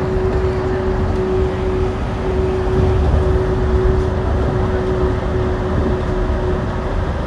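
Yurikamome rubber-tyred guideway train running along the line: a steady low rumble with a constant hum tone that fades out near the end.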